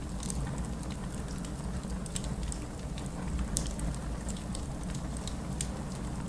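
Wood fire in a fireplace crackling, with scattered sharp pops and ticks over a steady low rumble.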